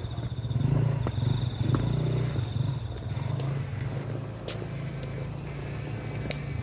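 A small engine running steadily with a low hum, louder in the first few seconds. An insect's high steady trill sounds over it and stops about three seconds in.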